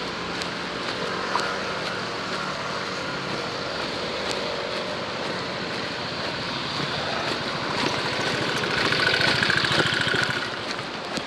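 Street traffic noise, with an engine passing close and loudest from about eight to ten and a half seconds in, its fast firing pulse plainly audible, typical of a motorcycle going by.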